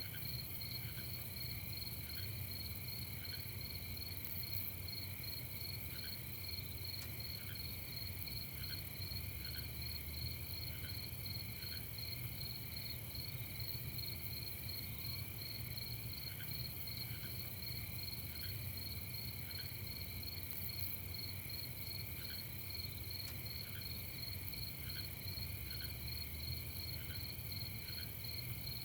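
Crickets chirping in a steady, continuous chorus, with a faint low rumble underneath and occasional softer single chirps.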